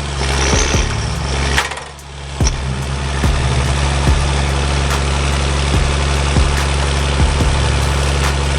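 Forwarder's diesel engine running steadily under load as the machine tries to drive out of deep mud, with a brief dip in level about two seconds in.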